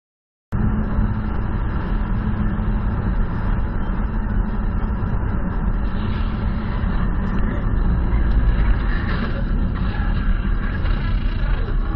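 Steady engine and road noise of a car driving, as picked up by a dashcam, starting abruptly about half a second in.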